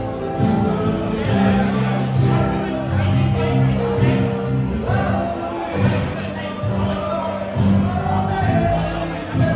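Live band music with a steady drumbeat, sustained chords and singing.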